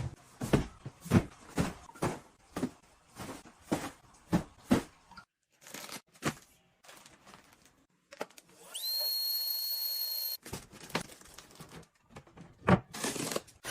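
A run of sharp clicks or snaps, about two a second, then a steady high-pitched electronic beep that glides up as it starts and lasts under two seconds, then a few more sharp clicks near the end.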